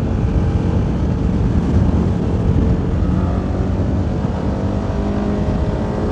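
CFMoto 300NK's single-cylinder engine running steadily under way, with wind rushing over the helmet microphone.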